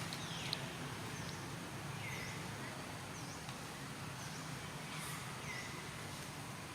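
Outdoor ambience with short, high chirps repeating every second or so, a few of them sweeping down in pitch.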